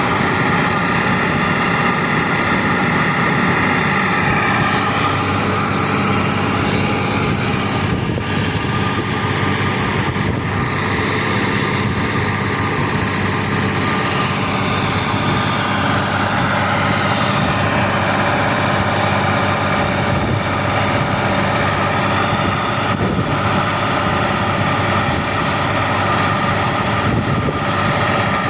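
Hyundai HX 220 HD excavator's diesel engine running steadily under load, with a higher whine above it that drifts up and down in pitch as it works.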